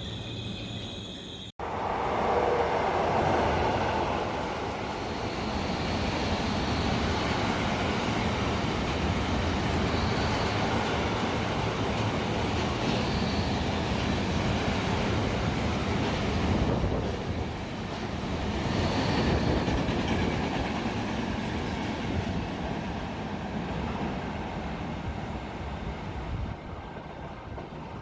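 A train running on the rails, with a steady rumble and wheel noise, a few brief high squeals, and some clickety-clack. It starts abruptly about a second and a half in and eases off near the end.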